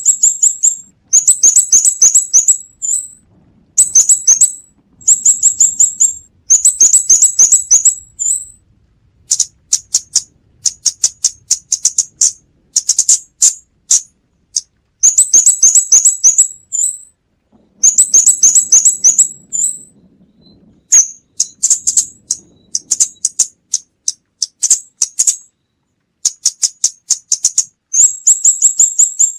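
Scarlet-backed flowerpecker calling: rapid runs of thin, very high ticking notes, in bursts of one to two seconds repeated with short gaps.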